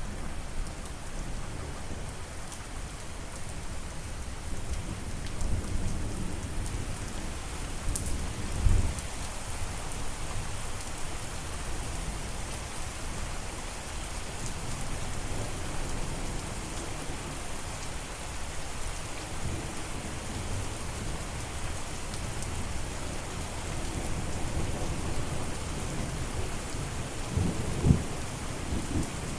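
Steady rain falling, with low rumbling of thunder underneath. The rumble swells louder about nine seconds in and again near the end.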